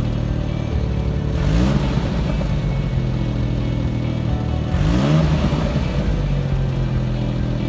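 Suzuki Jimny JA11's three-cylinder turbo engine idling through its exhaust. It is blipped twice, about a second and a half in and again about five seconds in, the revs rising and dropping back quickly each time.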